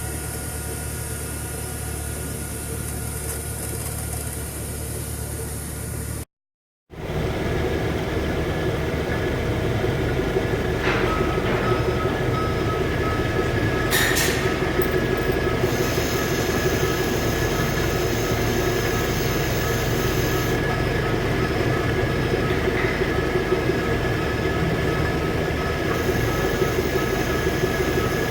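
Brown & Sharpe No. 1 OD cylindrical grinder running, a steady mechanical drone with several steady tones in it, while grinding a cylinder. The sound drops out for a moment about six seconds in and comes back louder, with a couple of brief sharp clicks a few seconds later.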